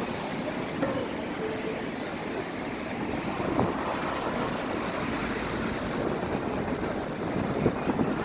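Steady city vehicle noise: a continuous rumbling hiss with a few faint brief clanks and tones.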